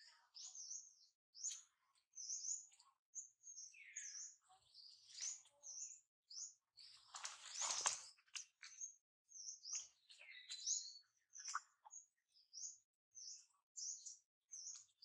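Birds chirping faintly, a steady run of short, high chirps about two a second, with one louder, noisier burst about seven to eight seconds in.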